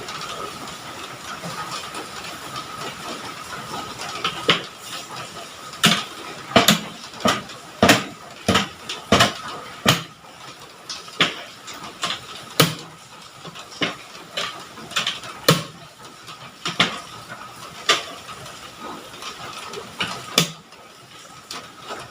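Steady hiss of falling water, with irregular sharp taps or knocks, roughly one a second, from about four seconds in until near the end.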